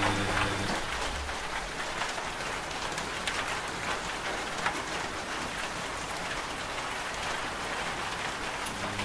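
Steady rain falling on a surface, with scattered individual drops ticking. The washing machine's low hum cuts off under a second in, leaving only the rain.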